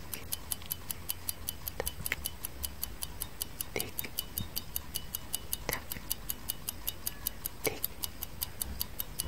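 Clock tick-tock sound effect: fast, even ticking at about four ticks a second, with a fainter, deeper click about every two seconds, over a low hum.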